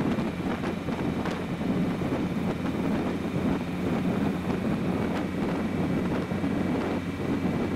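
BMW E30 320is's S14 four-cylinder engine, fitted with Schrick cams and an Evo2 muffler, running at steady revs while the car cruises slowly, with road and wind noise and a few faint clicks.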